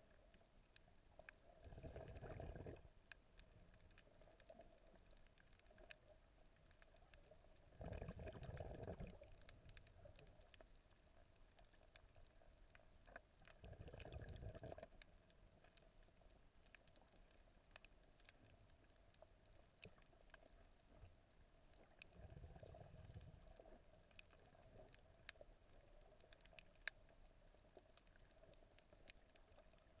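Faint, muffled underwater sound picked up by a submerged camera: a low steady hum with scattered tiny clicks, and four brief dull rushes of water, each about a second long.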